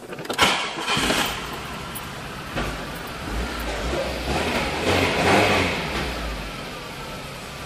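Car engine of a Volkswagen Santana Quantum, a VW AP engine with a 3E Solex carburettor, running and heard from inside the cabin. There is a clack just after the start, then the engine note swells to a peak around five seconds in and eases off again, like a rev that is let down. The owner says this engine runs terribly.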